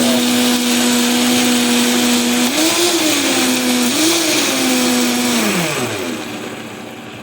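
Electric food blender running at a steady pitch while blending roasted tomatoes, blackberries, jalapenos and honey. The pitch briefly rises and falls back twice as the load shifts, then the motor is switched off and winds down with a falling pitch about six seconds in.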